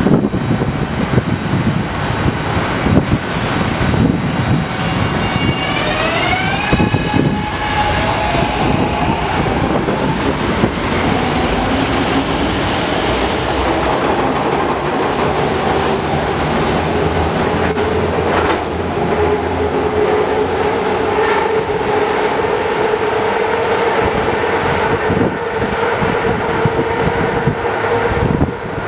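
SEPTA Adtranz M-4 elevated train pulling out of the station. A few seconds in, the whine of its propulsion rises in pitch as it accelerates, over a steady rumble of wheels on the track. Through the second half a long steady whining tone holds as the train moves away.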